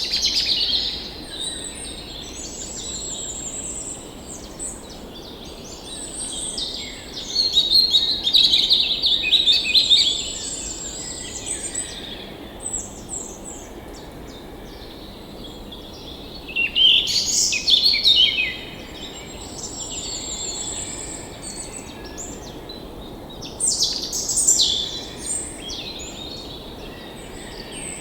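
Songbirds chirping and trilling, several calls overlapping, with louder bursts of song three or four times over a faint steady low hiss.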